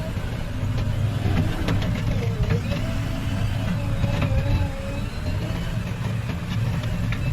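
Heavy diesel engine of earthmoving equipment running steadily under load, with a higher tone that wavers up and down above the rumble and a few sharp knocks.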